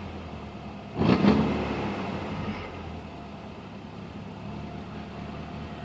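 Mercedes-Benz 190E Cosworth's four-cylinder 16-valve engine idling roughly just after a cold start. About a second in the revs jump briefly, then sink back to a steady idle.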